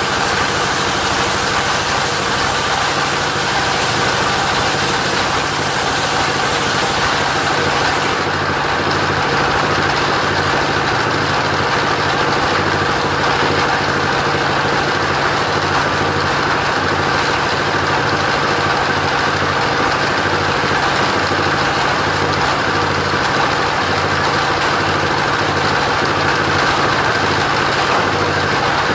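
Engine of a portable sawmill running steadily. The high hiss over it dies down about eight seconds in.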